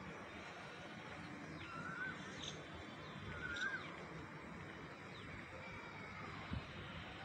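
Birds chirping outdoors: two short, curling calls about two and three and a half seconds in, with a few thin high notes, over a steady background hiss. A brief low thump comes near the end.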